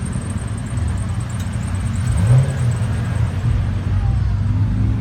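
Car engine running with a steady low rumble, with a brief louder rise in pitch about two seconds in.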